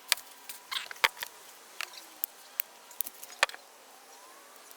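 Irregular sharp clicks and snaps, about ten of them, from hand tools working the end of a car-audio power wire while its insulation is stripped.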